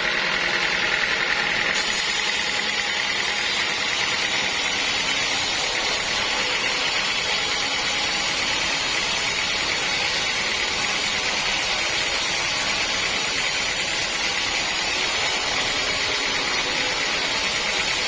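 Sawmill saw machinery running steadily, a continuous loud mechanical noise with no pauses.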